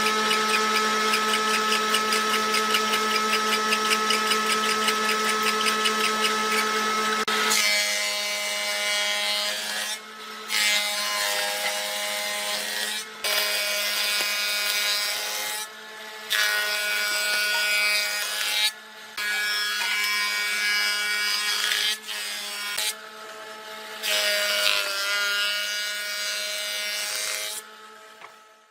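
Electric power tool running on wood with a steady hum. It runs unbroken for about seven seconds, then works in a series of passes of two to three seconds, each broken by a brief drop in level.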